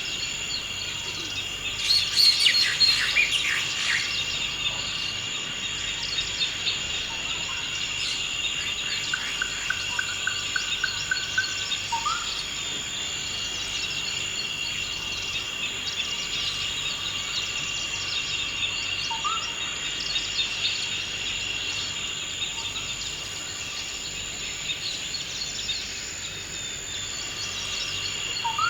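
Steady high-pitched drone of insects, with bird calls over it: a loud cluster of chirps a couple of seconds in, a rapid trill about ten seconds in, and a few short upslurred notes later on.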